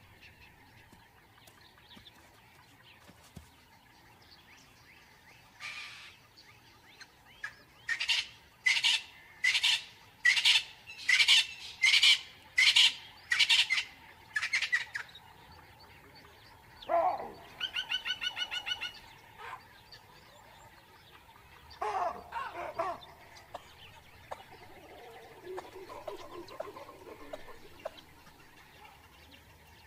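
Bird calls: a run of about a dozen sharp calls in quick succession, followed by a short rapid trill and a few scattered calls later.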